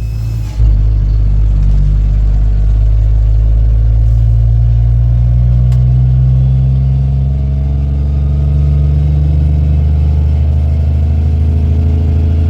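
Cummins M11 inline-six diesel of a loaded International 8100 dump truck running under way, heard from inside the cab as a steady low drone. A short dip and a thump come about half a second in.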